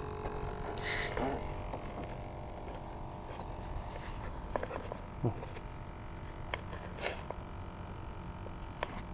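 A boat motor running with a steady hum and low rumble, with scattered small clicks and two short bursts of hiss, about a second in and near seven seconds.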